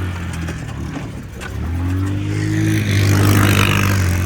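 A motor vehicle engine running, then revving up from about two seconds in, loudest a little after three seconds.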